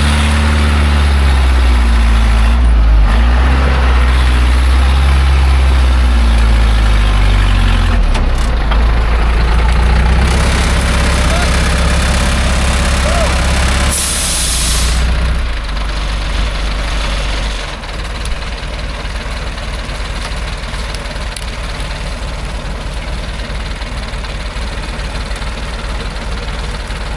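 Loaded logging truck's engine running hard, its pitch rising and falling as it labours. About fourteen seconds in there is a short loud hiss, and the engine then drops back to a quieter, steady run.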